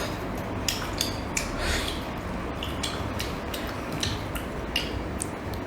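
Metal utensils clinking and scraping against cookware while a dish is stirred and its sauce thickened: a string of short, sharp clicks over a steady low noise.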